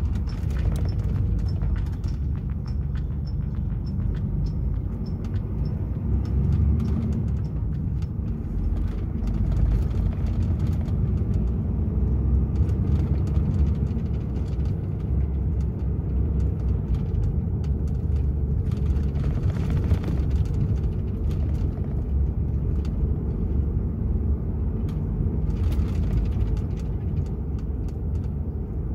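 DAF XF 480 truck's 12.9-litre six-cylinder diesel and road noise rumbling steadily while driving. A faint regular high ticking runs through the first seven seconds or so.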